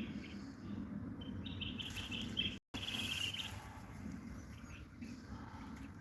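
European goldfinch singing a rapid twittering song, strongest a second and a half to three and a half seconds in, fainter after that. A short gap in the sound cuts into the song about two and a half seconds in.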